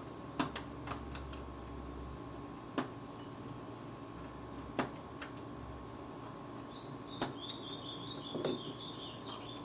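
Scattered light clicks and taps of a small metal tool working on a screw inside an opened PS3 console, irregular and a second or two apart, over a steady electrical hum. A brief, warbling high chirp runs for a few seconds near the end.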